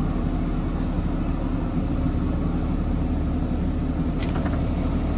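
Box truck's engine running with a steady low rumble, with a faint click about four seconds in.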